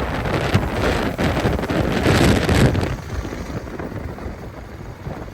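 Wind buffeting the microphone over a vehicle's running noise, easing off about three seconds in.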